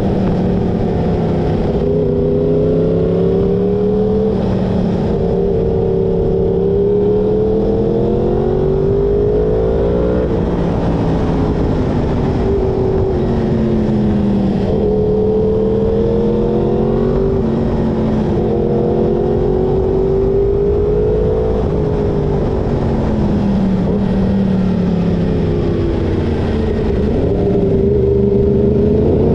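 Yamaha sportbike inline-four engine under way, its pitch rising and falling every few seconds as the rider accelerates, shifts and eases off through a string of bends.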